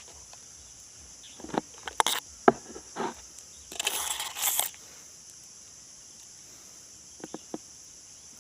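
Scattered snaps and knocks of twigs and branches, with a burst of rustling leaves about four seconds in, over a steady high-pitched hiss.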